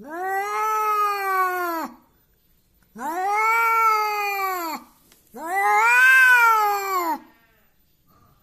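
Domestic cat yowling in anger: three long, drawn-out caterwauls, each rising and then falling in pitch, with short pauses between them.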